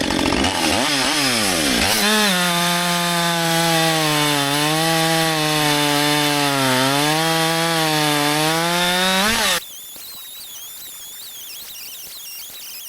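Husqvarna 564 XP 62cc two-stroke chainsaw revving up and down, then held at high revs with small dips in pitch as it cuts through a log. The engine cuts off abruptly about nine and a half seconds in.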